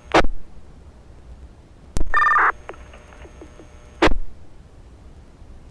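Fire department radio channel between transmissions: a short squelch burst at the start, a click and a half-second two-tone data burst as a radio keys up about two seconds in, and another squelch burst about four seconds in, with a low hiss between them.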